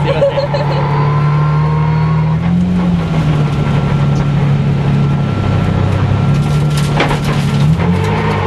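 Drift car's engine running steadily at low revs, heard from inside the cabin, with brief small rises in revs about two and a half seconds in and again near the end. There is a single sharp click about seven seconds in.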